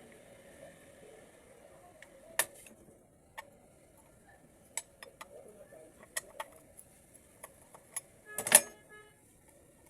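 Small metal parts and tools clicking and tapping as an automatic transmission valve body is worked on, with scattered light taps, a sharp one about two and a half seconds in, and a loud metallic clink that rings briefly near the end.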